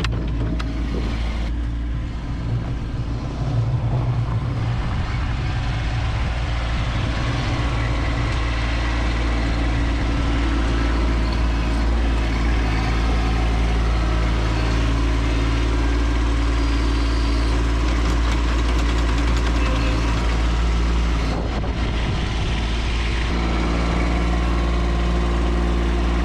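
Kubota B2601 compact tractor's three-cylinder diesel engine running steadily. Its note shifts briefly a few seconds in and again near the end.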